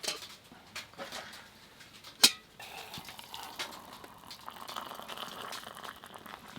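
A few sharp knocks of a kettle and cup being handled, then hot water poured into a cup for about four seconds to brew tea.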